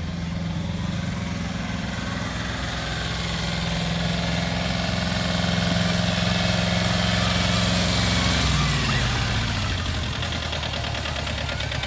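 Engine of the vehicle pulling a cow-train ride running steadily. About eight and a half seconds in, its pitch drops and it settles to a lower, idle-like note.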